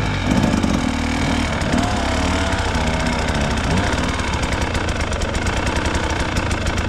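KTM 300 XC-W two-stroke single-cylinder dirt bike engine revving up and down under load, then settling from about four seconds in to low revs with an even, rapid pulsing beat.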